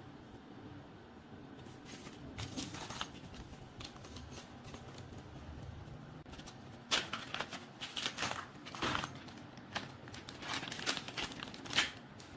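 Irregular short scrapes, rustles and clicks of hand work on parts: a few about two seconds in, then a busier run of sharper scrapes through the second half.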